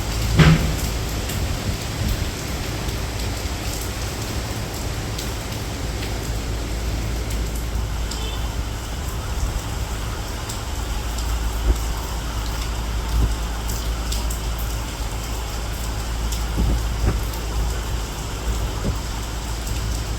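Rain falling steadily over a constant low rumble, with one short loud falling sweep about half a second in.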